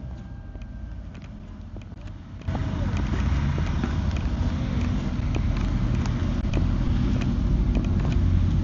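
Motorcycle engine and wind noise while riding a 2016 Triumph America, its 865 cc parallel twin running steadily. The sound jumps suddenly louder about two and a half seconds in and stays loud.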